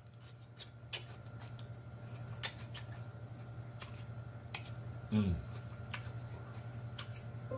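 Close-up crunching and chewing of a raw vegetable stick: crisp, irregular crunches about once a second. About five seconds in there is a short falling 'mm' from the eater, over a steady low hum.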